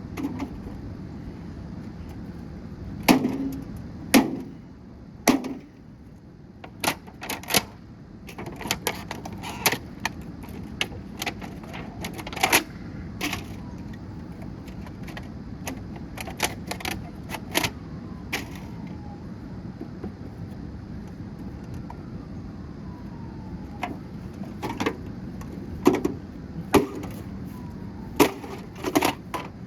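A microwave oven being broken apart by hand: irregular sharp knocks, cracks and snaps of plastic and sheet metal, with the loudest hits in clusters near the start and again near the end, and a few faint falling squeaks in between.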